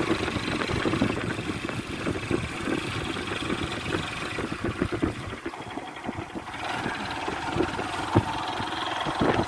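A motor vehicle running, with many irregular knocks and rattles.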